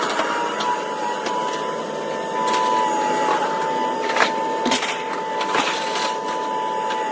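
Excavator unloading scrap metal from a trailer: a steady, high-pitched machine whine runs throughout, with scattered metal clanks, the loudest about four seconds in.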